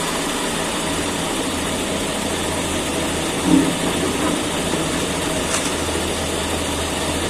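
Diesel engine of a Caterpillar excavator running steadily, with a constant low hum. A brief louder sound stands out about three and a half seconds in.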